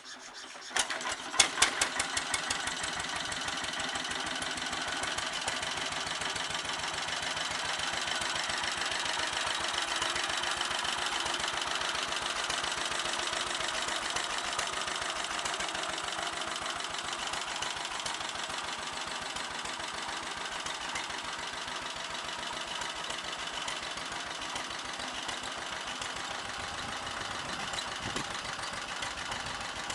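Bernard engine starting about a second in with a few sharp bangs, then running steadily with a rapid, even firing beat.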